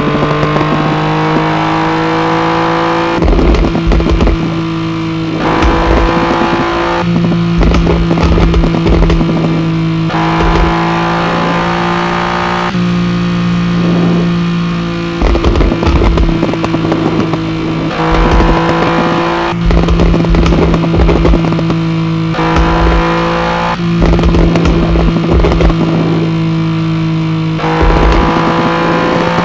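BMW E30 engine with a crackle exhaust, idling and blipped repeatedly, every few seconds. Each short rev falls back to idle with a burst of crackling and popping from the exhaust.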